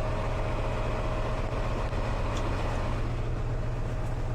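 Steady low drone of a parked semi truck's idling engine, heard from inside the cab, with a faint steady whine that fades out about three seconds in.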